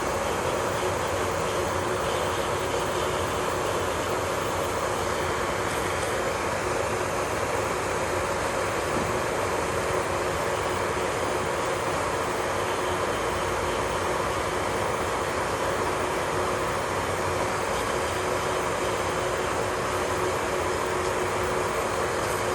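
Small electric motor of nail-care equipment running steadily, a constant whine over an even hiss.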